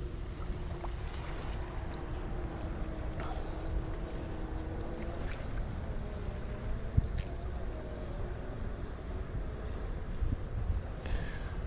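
Steady, unbroken high-pitched insect chorus trilling, over a low even background hiss.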